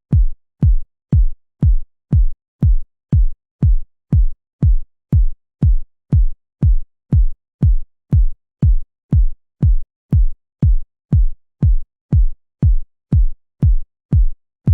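Electronic kick drum playing alone in a steady four-on-the-floor beat, about two hits a second. Each hit is a short click that drops quickly into a low boom.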